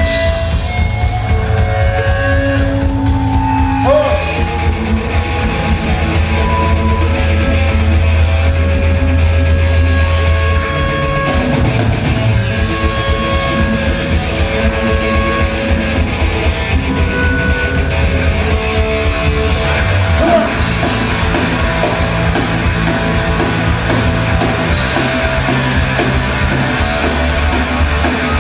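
Rock band playing, with electric guitar over bass and a steady beat.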